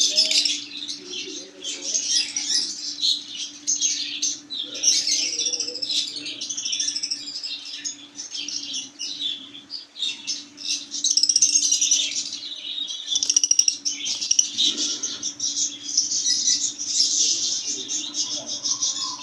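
A group of small parrots chattering and chirping constantly, over a steady low hum.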